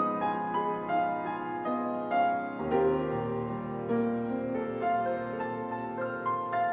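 Piano music: a melody of single notes moving over held chords.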